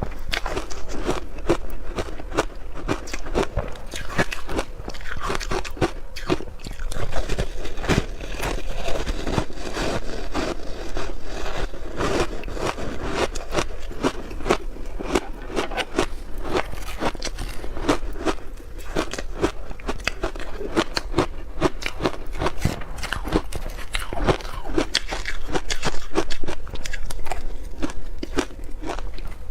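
A person biting and chewing ice close to the microphone: a dense, continuous run of sharp crunches and cracks.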